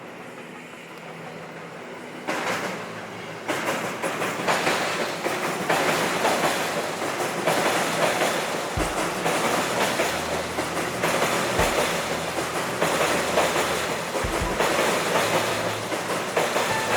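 A train passing close by, its wheels clattering over the rail joints in a repeating clickety-clack. The sound builds over the first few seconds as it arrives, with a few deep thumps further on.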